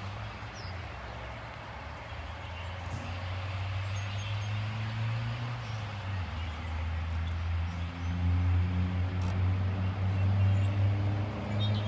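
A vehicle engine running close by, a low steady hum that grows louder in the second half, over a steady background hiss.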